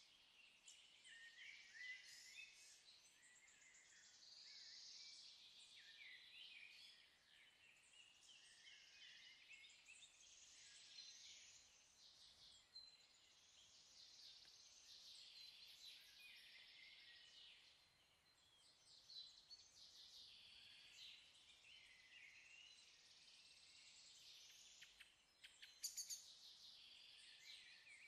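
Faint birdsong: many birds chirping and trilling at once, with a quick rattling run of notes near the end.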